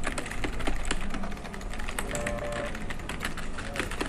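Rapid, irregular clicking of a computer keyboard being typed on, with background music underneath.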